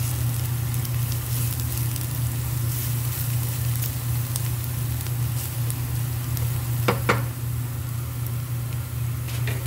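Garlic sizzling in hot oil in a nonstick frying pan, with light crackles as it is stirred with a spatula, over a steady low hum. Two sharp knocks about seven seconds in.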